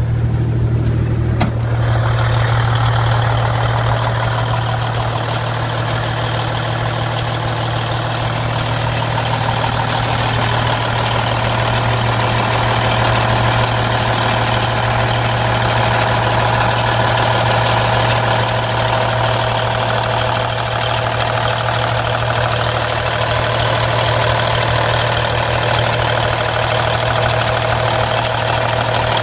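Cummins N14 inline-six diesel of a Kenworth W900 truck idling steadily, a low even drone with mechanical clatter above it; the upper part of the sound gets fuller about a second and a half in.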